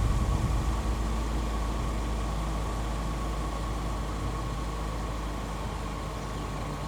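2022 Genesis GV80 SUV engine running at idle: a steady low rumble, a little louder in the first second and then settling.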